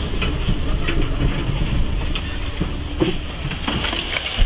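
Excavator engine running with a steady low rumble, with scattered cracks and knocks of demolition debris and a heavier thud near the end.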